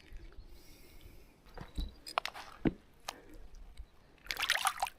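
Handling noises around a small catfish that has just been landed: a few sharp clicks and taps, then a short rustling scuffle a little after four seconds in.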